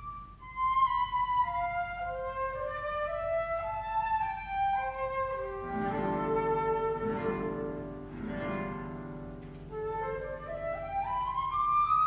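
Flute and guitar duo playing: the flute's melody steps downward, the guitar fills in fuller chords in the middle, and the flute line climbs again near the end.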